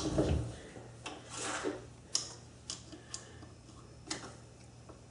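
A thump, then scattered light clicks and taps of metal parts and tools being handled at a metal lathe, fading toward the end over a faint steady hum.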